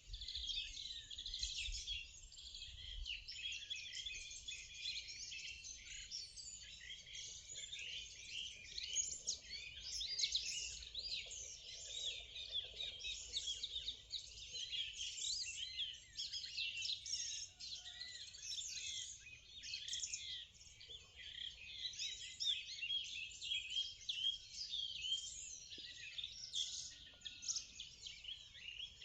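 Morning birdsong: many birds singing and chirping at once, a dense, continuous chorus of short high chirps and trills.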